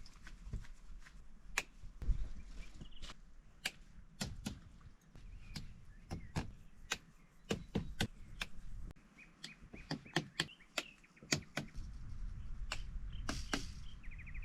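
Irregular sharp knocks and cracks of wood being struck or chopped. A bird chirps a few times, with a short rapid trill near the end.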